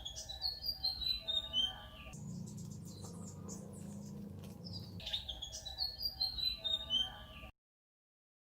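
Bird song: a quick run of chirps stepping down in pitch, heard twice with a low rumble between. It cuts off abruptly to silence about a second before the end.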